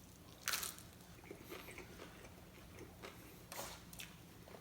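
Close-up eating sounds of a person chewing a taco: two louder bites about half a second in and around three and a half seconds, with quiet chewing between them.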